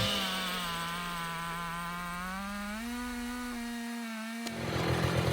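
Jonsered 90 two-stroke chainsaw on a chainsaw mill running at high revs in a cut, its pitch rising slightly about two and a half seconds in. About four and a half seconds in it changes abruptly to a rougher, lower, rapidly pulsing engine sound.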